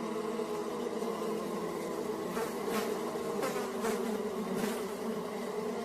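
A steady insect-like buzzing drone, with a few faint clicks over it.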